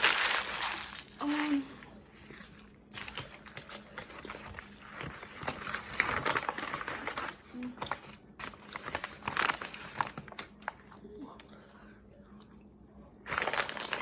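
Irregular crinkling and rustling of a sandwich wrapper being handled, louder in a few spells and quieter near the end.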